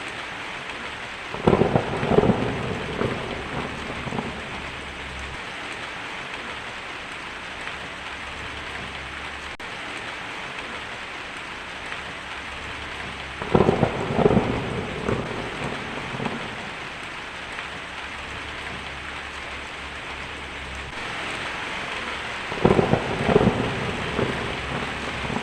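Steady rain falling, with three rolls of thunder: one about a second in, one around the middle and one near the end, each opening with a few sharp cracks and rumbling on for two or three seconds.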